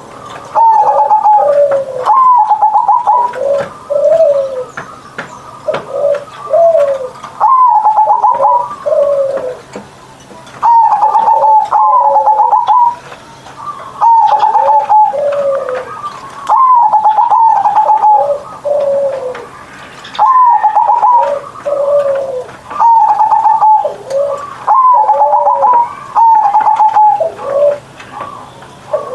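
Zebra dove (perkutut) singing its loud cooing song. It repeats phrases every couple of seconds, each a quick run of high staccato notes that drops into lower, drawn-out coos.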